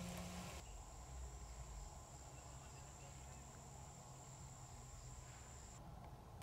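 Faint forest ambience with an insect's steady, high-pitched trill, which stops suddenly near the end.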